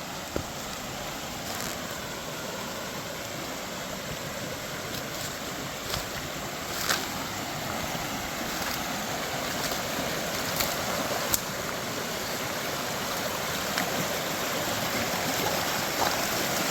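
Storm-swollen creek water rushing steadily through and around a log jam, gradually getting louder, with a few short, sharp clicks.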